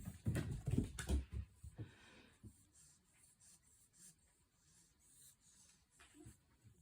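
A quick flurry of soft, heavy thumps and rubbing in the first second and a half, then faint scattered scratching and clicks.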